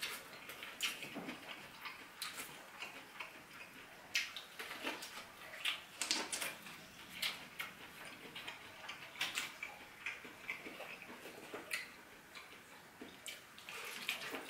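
A person chewing and eating, with irregular wet mouth clicks and smacks.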